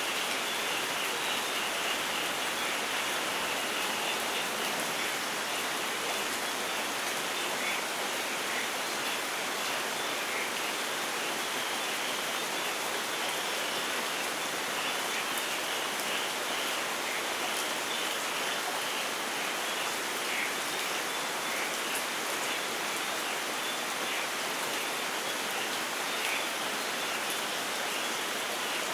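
Steady rain falling, an even hiss with many small drops pattering through it and no thunder.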